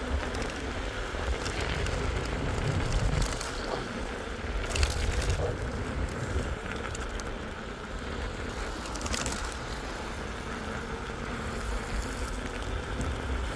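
Low wind rumble on the microphone over a steady wet hiss of rain, with scattered crackles and a few sharp clicks.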